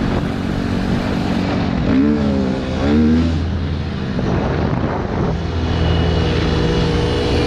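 Dirt bike engine running, its pitch rising and falling in two quick revs about two and three seconds in.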